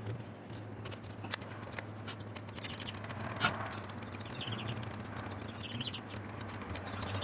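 Scattered light metallic clicks and taps of hand tools working on the engine's timing-chain area, one sharper click about halfway through, with birds chirping in the background over a steady low hum.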